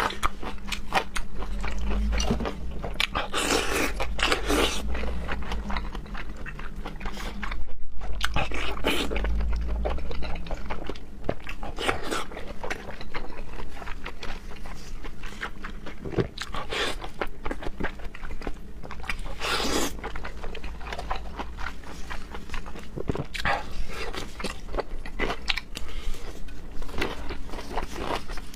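A person eating raw seafood close to the microphone: repeated crunchy bites and moist chewing, with a louder burst about eight seconds in.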